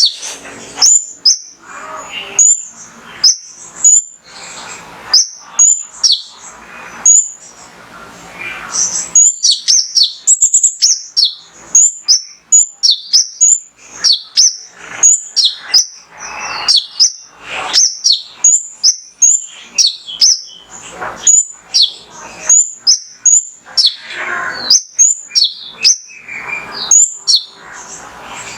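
Male sunbird (kolibri ninja, konin) singing: a run of sharp, high-pitched chirps, one to two a second.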